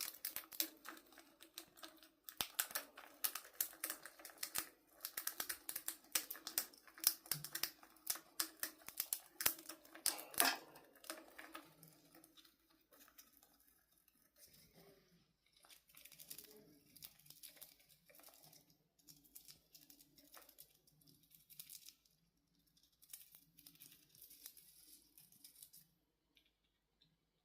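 A chipmunk cracking peanut shells with its teeth: rapid, crisp cracking and crunching clicks. They are dense for the first twelve seconds or so, then become sparser, quieter nibbling, and stop shortly before the end.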